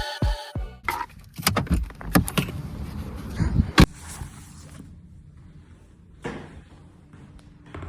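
Irregular clicks, knocks and rustling of things being handled: a dense run through the first four seconds, the loudest knock just before four seconds in, then a few isolated knocks.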